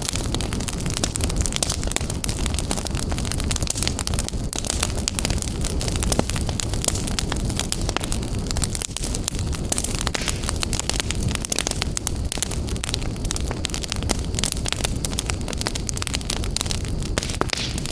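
Wood fire burning in a fireplace: constant crackling and popping over a low rumble of flame.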